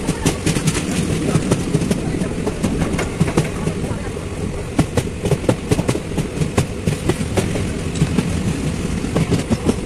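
Passenger train running along the track, heard from on board: a steady rumble with a rapid, irregular clatter of wheels over the rails.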